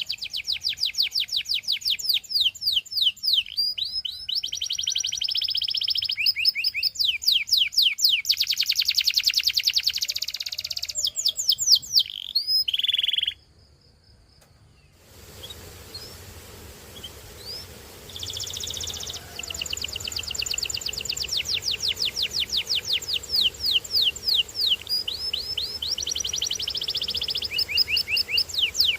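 Canary singing in long, fast trills and rolls of rapidly repeated high notes, changing from one tour to the next. The song stops for about two seconds midway, then picks up again.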